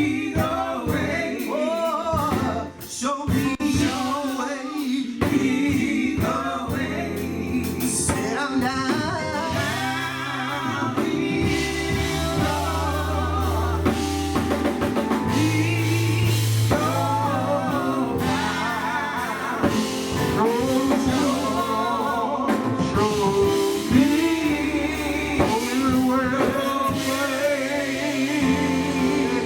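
Live gospel quartet music: lead and backing singers over bass guitar and drum kit.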